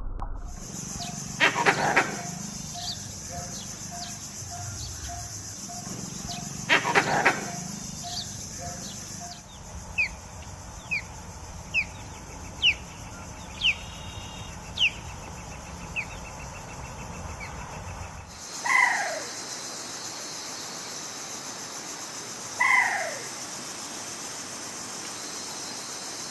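A sequence of different animal calls in turn: two loud calls in the first part, then a run of short, falling bird chirps about one a second, then two loud falling calls near the end.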